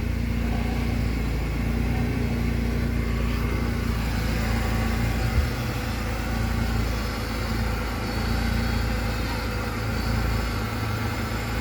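Mercedes-Benz A160 engine idling steadily, with no front-end knock now that the loose stabilizer link has been disconnected. One short knock about five seconds in.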